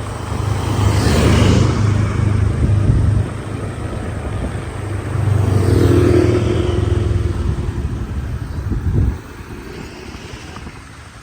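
Motorcycle engine running during a ride, with rushing noise over it, swelling louder twice; the engine sound drops away suddenly about nine seconds in.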